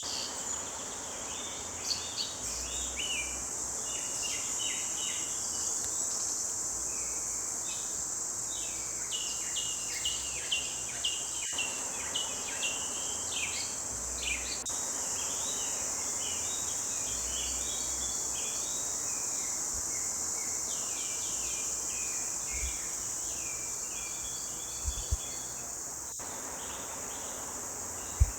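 Many small forest birds chirping and trilling in a chorus, over a steady high insect drone. Brief low thumps near the end, the last one sharp and the loudest sound.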